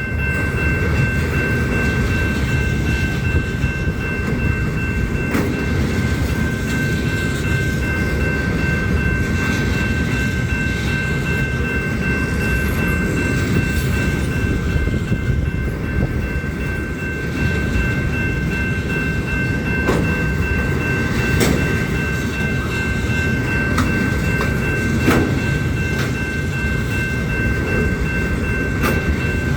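Union Pacific train cars rolling past: a steady low rumble with scattered sharp clacks of wheels over rail joints, and a faint steady high-pitched ringing tone throughout.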